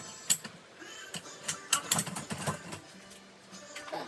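Wire dishwasher racks being slid out on their roller tracks: a string of rattles, clicks and metal-on-plastic knocks, busiest in the first couple of seconds.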